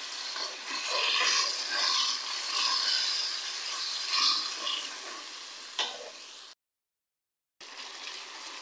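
Tomato and onion masala sizzling in hot oil in a karahi with a little water added to soften the tomatoes, while a steel spoon stirs and scrapes the pan. A sharp knock of the spoon about six seconds in, then the sound cuts out for about a second before the sizzling resumes.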